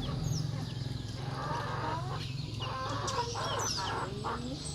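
Chickens clucking in short repeated calls, mixed with quick high-pitched bird chirps.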